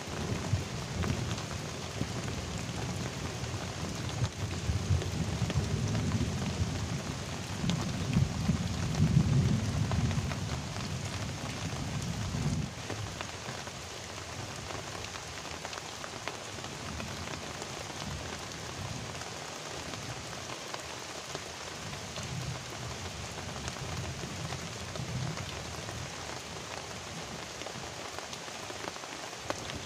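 Heavy tropical rain hissing steadily on a river and its bank. A low rumble swells under it for the first twelve seconds or so and ends abruptly, and fainter rumbles return later.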